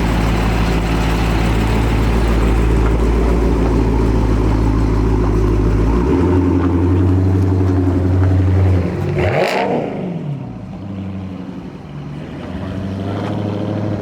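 Dodge Scat Pack's 392 HEMI V8 with a very loud aftermarket exhaust, running with a steady deep note that steps up in pitch about six seconds in. The engine swells to its loudest at about nine and a half seconds, drops back, then builds again near the end.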